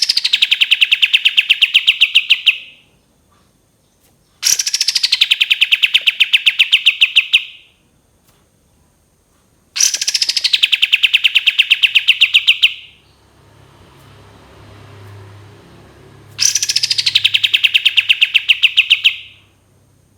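Kapas tembak bird song: four repeated phrases, each opening with a quick falling note and running into a fast, rattling trill about three seconds long, the long 'tembakan' burst.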